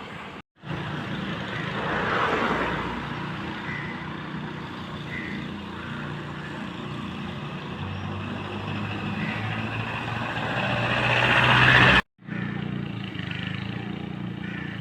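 Road traffic: vehicle engines running with steady low hum and road noise, building up near the end as something passes close. The sound is broken twice by abrupt edit cuts, about half a second in and again near the end.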